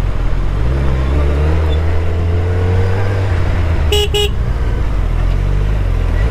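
Suzuki Hayabusa's inline-four engine running steadily at highway cruising speed, heard from on the bike. A horn sounds two short beeps about four seconds in.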